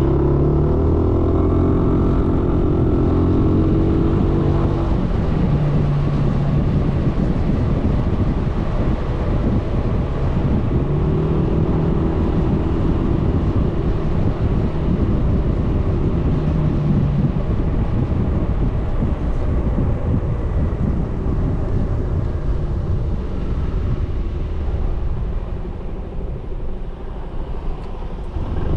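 Suzuki Burgman 400 scooter's single-cylinder engine running while riding, with constant wind and road noise. The engine note stands out for a few seconds at a time, shifting in pitch as the speed changes.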